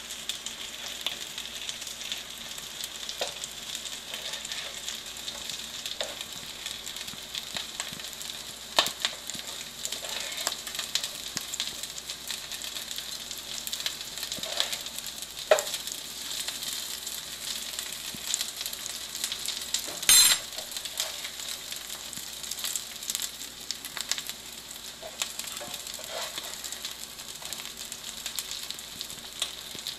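Chickpea-and-potato patties shallow-frying in oil in a nonstick pan, with a steady sizzle. A spatula scrapes and knocks against the pan now and then as the patties are turned, loudest once about twenty seconds in.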